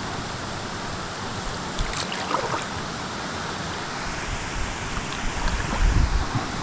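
Steady rush of a waterfall with lots of water going over it, with a few low bumps on the microphone about six seconds in.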